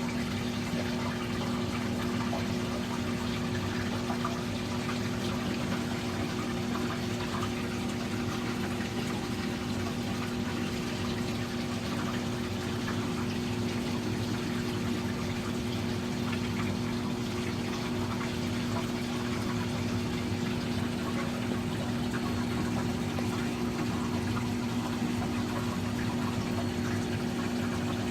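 Saltwater aquarium filtration running: a water pump with a steady low hum over a constant rush of circulating water.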